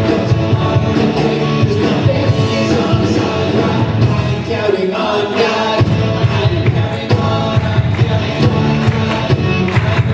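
Live worship band playing an upbeat rock-style song with a steady beat, with sung vocals.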